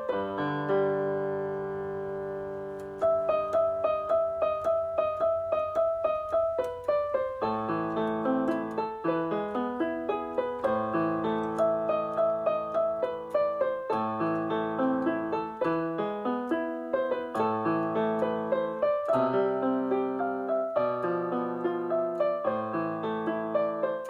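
Background piano music: a melody of quickly repeated struck notes over held chords.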